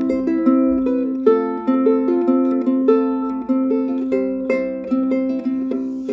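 Low-G-tuned pineapple ukulele with spruce and maple woods and fluorocarbon strings, fingerpicked: a melody of plucked notes, each ringing out and fading, over a repeating low note.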